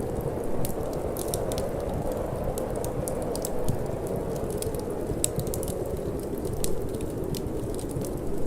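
Wood fire crackling in a fireplace, with frequent sharp irregular pops and snaps over a steady low rush of wind and flame.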